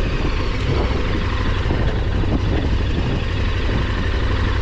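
Loud, steady rumble of wind noise on the microphone, heaviest in the low end with a hiss above it.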